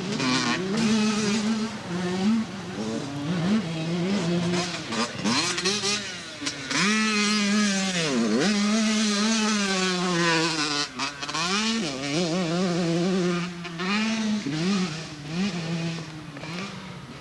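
Motocross dirt bike engine revving hard on a track, its pitch climbing and dropping again and again as the rider works the throttle and gears. About eight seconds in the pitch dips sharply and climbs back, and the engine fades somewhat near the end.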